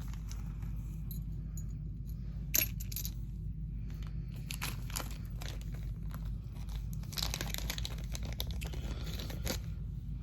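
Small pendants and beads clinking and clicking against each other as they are handled, with one sharper click about two and a half seconds in, over a steady low hum.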